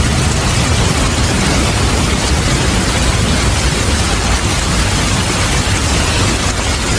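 Steady heavy rain with a continuous low rumble of thunder underneath, with no sharp cracks.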